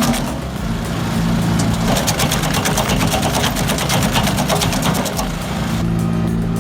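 Wood chipper running under load, its engine steady beneath a dense crackle of wood being chipped. Near the end the crackling thins out and the engine runs on alone.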